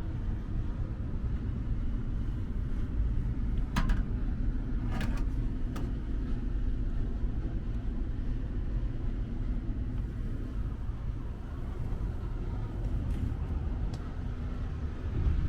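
1958 Chevrolet COE truck engine idling steadily with a low rumble, with a few light clicks about four to six seconds in.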